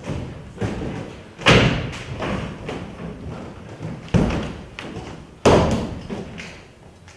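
Three loud thuds, about one and a half, four and five and a half seconds in, each followed by a short reverberant tail, with lighter knocks and taps between them.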